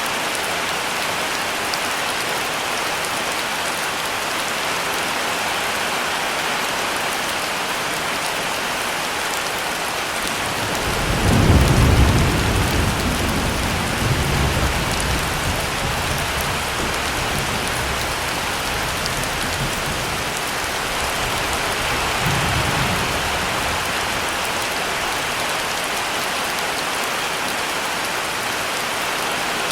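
Heavy rain falling steadily on a surface, a constant hiss. About eleven seconds in, a deep roll of thunder rises and rumbles on for several seconds, swelling again briefly a little later and once more near the two-thirds mark.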